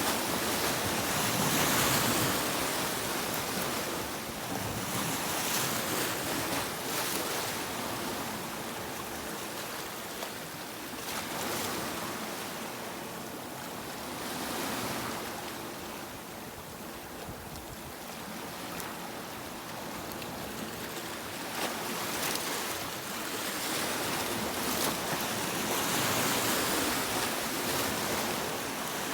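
Sea waves breaking and washing on a beach, the surf swelling and easing every few seconds.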